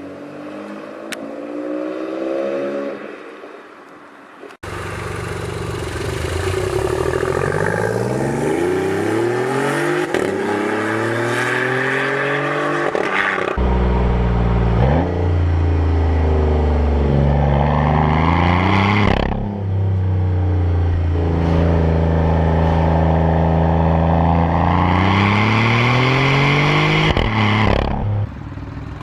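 Three-cylinder car engines accelerating, the engine pitch climbing and dropping back again and again through gear changes. This comes as several clips cut together, with abrupt changes about four and a half seconds in and again about thirteen and a half seconds in.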